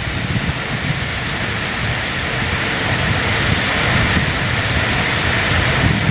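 Wind buffeting the microphone over a steady rushing hiss, slowly getting louder.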